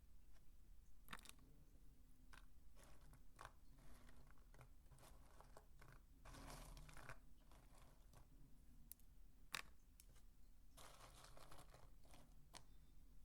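Dry soap being crumbled and crunched, a faint, irregular run of small crackles and clicks with a sharper snap about two-thirds of the way through.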